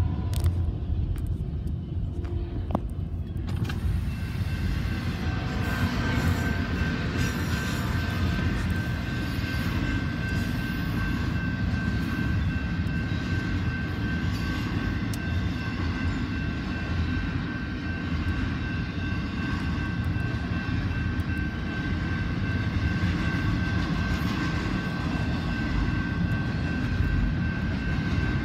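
Union Pacific double-stack container train rolling past a level crossing, heard from inside a car: a steady low rumble of the passing cars. A few seconds in, a steady high squeal joins it and holds.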